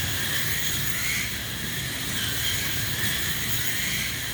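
A pack of modified slot cars racing on a large track: their small electric motors whine, rising and falling in pitch as the cars speed up and slow, over a steady hiss of wheels and guides running in the track slots.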